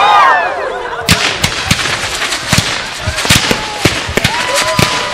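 Fireworks display going off: a dense, irregular run of sharp cracks and bangs, several a second, loudest in the first second.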